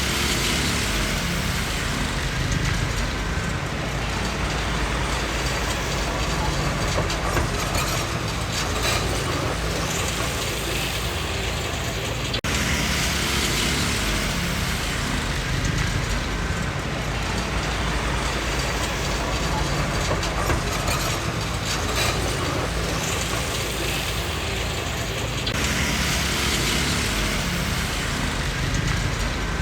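Komatsu D20P crawler bulldozer working: its diesel engine runs steadily under the rattle and clank of its steel tracks. The clatter grows and fades in stretches as the machine moves.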